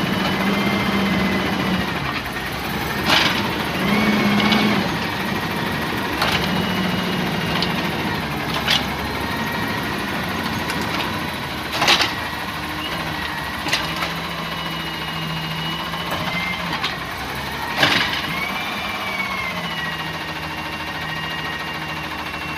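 A Peterbilt 320 garbage truck's 8.9 L six-cylinder natural gas engine running steadily. A low hum comes and goes in stretches, and a handful of sharp clanks sound at irregular intervals.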